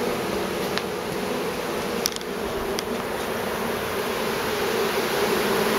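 Honeybee swarm buzzing steadily: a dense, continuous hum of thousands of bees clustered close to the microphone.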